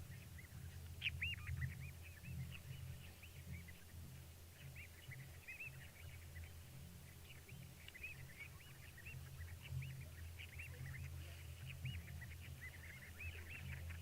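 A dense chorus of many short, high chirping calls from small animals, overlapping throughout, over a steady low hum.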